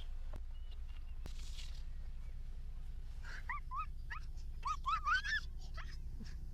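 A dog whimpering: a quick run of short, high whines, each rising in pitch, in the second half.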